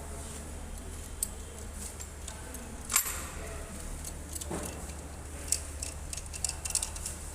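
Metal hand tools and loosened cylinder-head bolts clinking and tapping during engine teardown. There is one sharper knock about three seconds in and a quicker run of clinks near the end.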